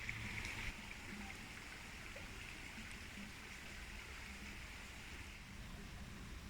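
Faint, steady rush of flowing water from a nearby stream or falls.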